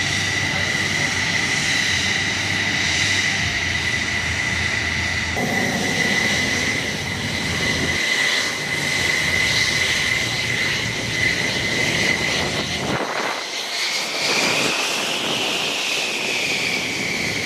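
F-15SG twin-engine fighter jets running, a steady jet roar with a high whine on top. Near the end the whine rises and then falls in pitch.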